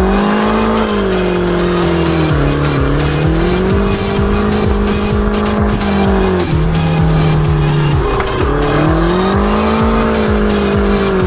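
Drift car's engine held high in the revs while sliding, its note rising and falling several times and dropping sharply about six seconds in, over continuous tire squeal.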